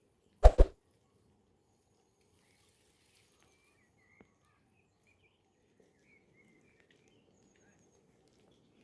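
Two sharp knocks in quick succession about half a second in, then faint outdoor ambience with scattered bird chirps and a single faint click near the middle.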